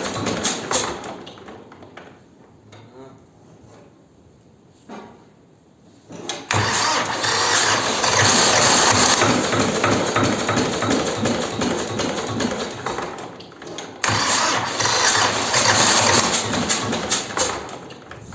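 T-25 tractor's two-cylinder air-cooled diesel engine being cranked on the starter in long attempts, with a lull early on and then two long loud cranking runs, the engine not catching cleanly.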